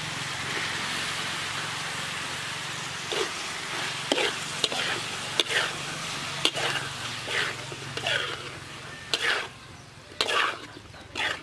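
Pork and freshly added mushrooms frying in a metal wok with a steady sizzle, and a metal spatula scraping and stirring against the pan about once a second from about three seconds in. The sizzle dies down near the end.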